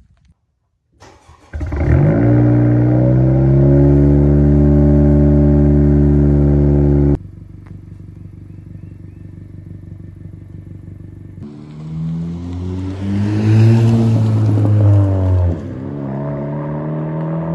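A Honda Civic's engine starting about a second and a half in and settling into a loud, steady fast idle, which stops abruptly. After a quieter steady hum, the car drives off, its engine note rising and falling as it accelerates.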